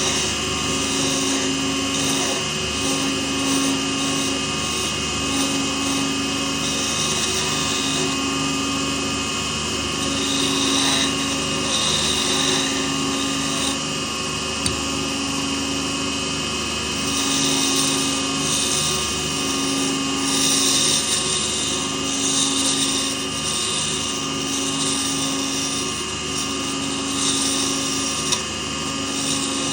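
Lathe running steadily, its hum pulsing slowly about every second and a half, with recurring bursts of hiss from turning work on the pen blank.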